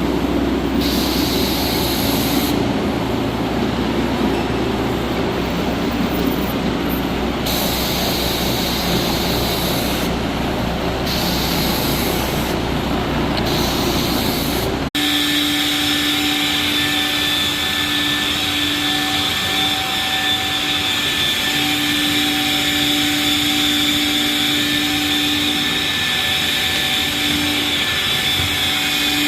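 Floor-cleaning machines running steadily: a hard-surface cleaning wand's suction and spray rushing, then after an abrupt change about halfway, a wet/dry vacuum motor with a steady whine.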